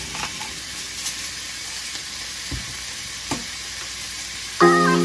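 Beef, onion and garlic sizzling in a hot oiled wok: a steady frying hiss with a few faint ticks and one low knock. Background music starts abruptly near the end.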